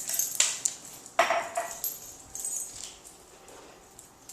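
A dog eating a crunchy treat: a few short crunching and clicking sounds.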